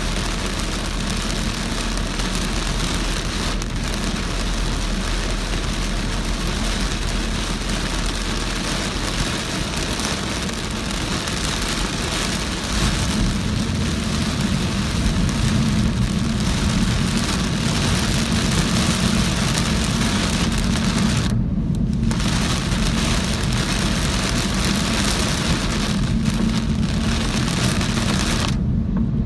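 Heavy rain drumming on a moving car, with the hiss of tyres on a flooded road and a low road rumble underneath. The rain hiss drops out briefly twice near the end.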